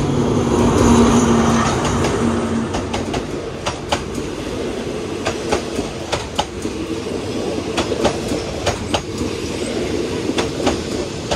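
Train running on the rails, its wheels clicking over rail joints at uneven intervals about once or twice a second over a steady rumble. A steady hum sounds at first and fades out about two and a half seconds in.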